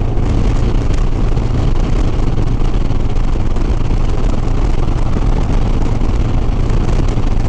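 Harley-Davidson Softail Sport Glide's V-twin engine running steadily at cruising speed, with wind rushing over the helmet microphone.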